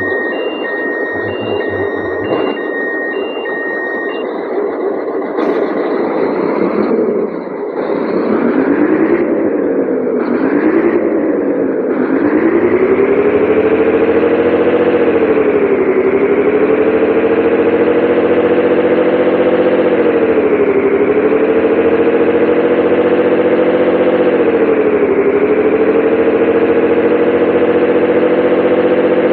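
Scania 113H 360 truck's diesel engine running, with an electronic warning beeper sounding in short repeated beeps for the first few seconds. About twelve seconds in the revs rise and are held high, sagging briefly and recovering three times.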